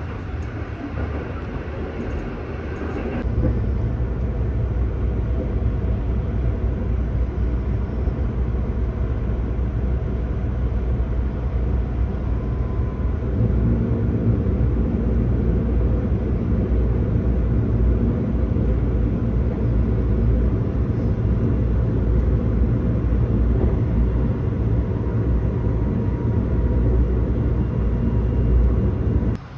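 Steady low rumble of the Sunrise Izumo sleeper train, a 285 series electric train, running at speed, heard from inside the car. The rumble steps louder about three seconds in and stops abruptly just before the end.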